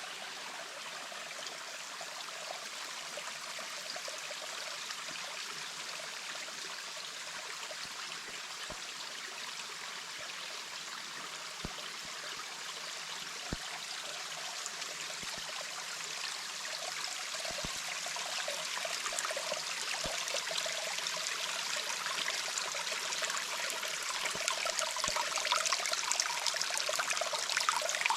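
Running water of a small stream, a steady rushing with a gurgling undertone that grows gradually louder.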